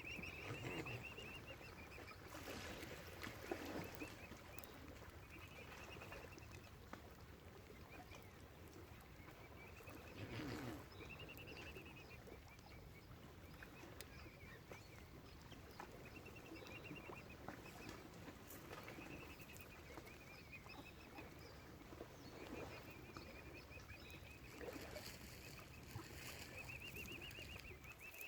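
Faint bird calls: a high trilling call about a second long, repeated every couple of seconds, with a couple of lower, louder calls from waterfowl near the start and about ten seconds in.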